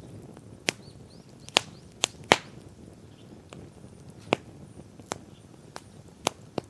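Wood campfire crackling: about nine sharp, irregular pops over a low, steady hiss of burning, the loudest a little past two seconds in.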